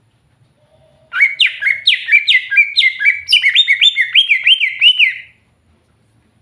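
Cucak hijau (green leafbird) singing: a loud phrase of about four seconds, starting about a second in, made of a quick run of clear whistled notes that each swoop up and down.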